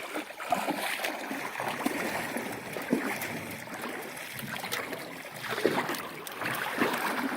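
Shallow river current rippling and splashing around a canoe, with small irregular splashes throughout.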